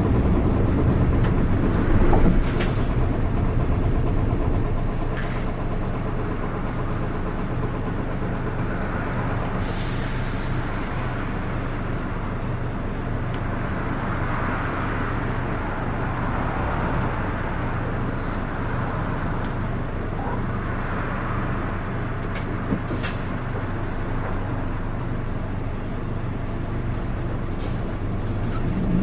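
Cabin sound of a Nissan Diesel Space Runner RA city bus: the diesel engine runs steadily and eases to a lower, quieter note after about five seconds. A short hiss of air comes about ten seconds in, with a few sharp clicks. This bus's engine note is unlike that of other RA buses.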